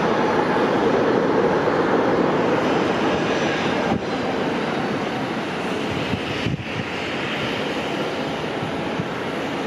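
Jet airliner engine noise, a loud steady rush that eases slightly about four seconds in.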